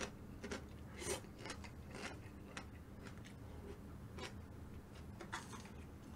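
Faint eating sounds: chewing with small irregular clicks and crackles from the mouth and utensils.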